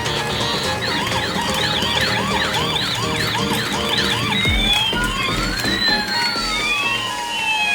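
Electronic toy police siren: a fast yelping rise-and-fall, a couple of sweeps a second, switching about four seconds in to a slow wail with two tones gliding up and down across each other.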